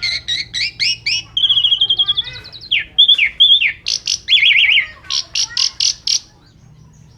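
Asian pied starling (jalak suren) singing a fast, varied song: a run of repeated chirps, a quick trill, down-slurred whistles and loud sharp notes, dropping away in the last second. It is a full song packed with mixed phrases (isian).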